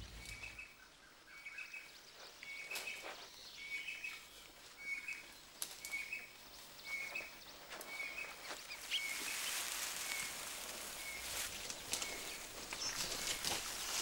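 Quiet jungle ambience: a bird repeats a short, high call about once a second, with scattered soft clicks and rustles. About nine seconds in, a faint high hiss joins.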